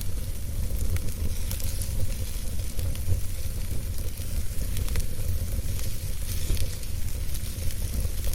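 Wood campfire burning: a steady hiss and low rumble, with many small, irregular crackles and pops from the burning wood.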